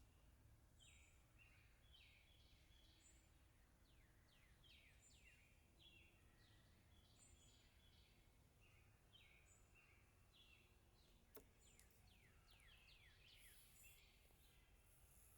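Faint birds chirping: many short repeated calls and quick falling notes, with a faint high note now and then. A single sharp click comes about eleven seconds in.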